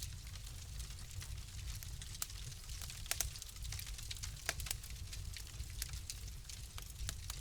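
Fire crackling: irregular sharp pops and ticks over a steady low rumble, with a few louder pops about three seconds in and again about four and a half seconds in.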